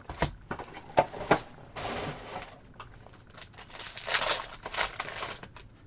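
Plastic wrapping crinkling and tearing as a sealed box of trading cards and its packs are opened, with a few sharp clicks near the start and two longer rustling tears, the second the loudest.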